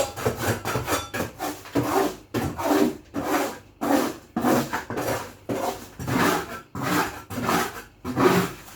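Rhythmic rasping strokes against a hard surface, about two a second and fairly even, as from scrubbing or scraping during fridge cleaning.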